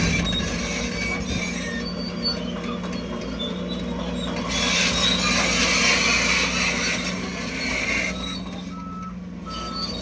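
Heavy diesel earthmoving machinery running steadily, with a constant low engine drone under metallic squeaking and rattling. A few short high beeps sound near the end.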